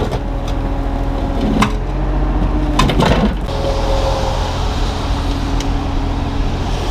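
Kubota U35-3 mini excavator's diesel engine running steadily while the machine works, with a few sharp knocks about a second and a half and three seconds in.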